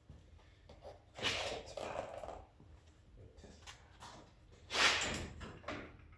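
Brief handling noises from work on a car's front end: two short noisy bursts, one about a second in and a louder one near the end.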